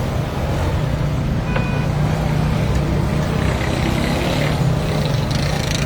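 Motor vehicle engine running steadily, with a short high beep about one and a half seconds in.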